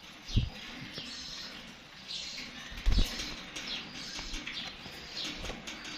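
Young nightingales, about three months old, giving repeated short high chirps, many falling in pitch. Two dull thumps come about half a second in and just before the three-second mark.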